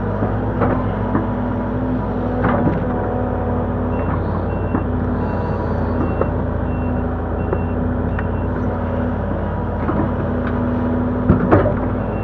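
Link-Belt 145X3E hydraulic excavator's diesel engine and hydraulics running steadily under load, with scattered knocks and a couple of louder sharp knocks near the end. A high back-up alarm beeps about twice a second for several seconds mid-way.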